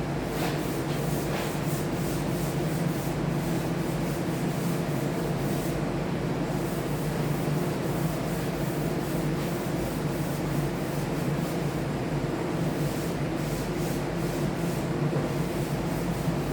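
Sanding on a wood surface, a steady rough scraping hiss over a constant motor hum, during the final sanding before a top coat.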